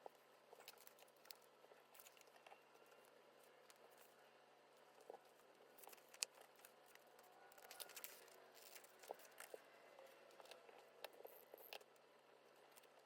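Faint handling sounds of sticker decorating on a binder: light rustling and crinkling with scattered small clicks and taps, one sharper click about six seconds in.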